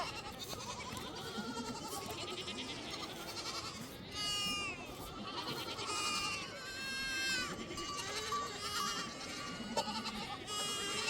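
Goats bleating: several high, quavering calls one after another, over a faint steady background.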